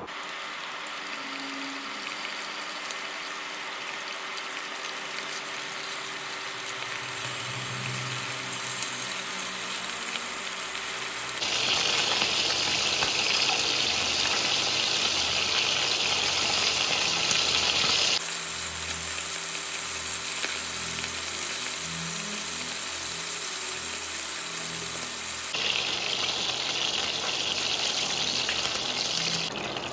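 Chicken wings sizzling in hot oil in a frying pan: a steady hiss, quieter for the first dozen seconds. After that it gets louder and harsher, and it changes abruptly a few times.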